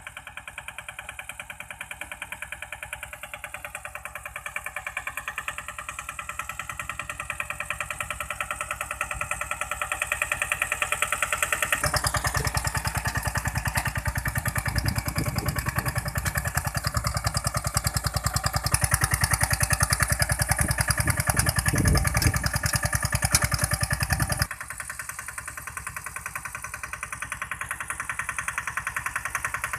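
Three-wheel mini tractor engine running steadily with a rapid even firing beat, growing louder and loudest in the middle stretch, then dropping suddenly to a lower level about two-thirds of the way through.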